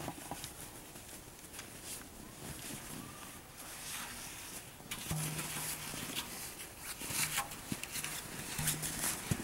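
Irregular crunching in deep snow, like footsteps, getting louder and busier from about halfway through.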